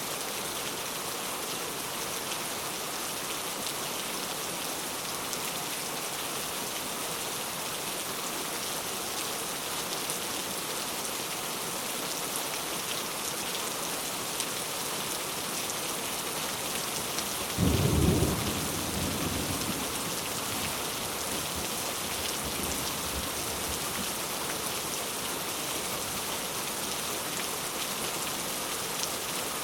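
Steady rain falling, with one sudden clap of thunder a little past halfway that rumbles away over a few seconds.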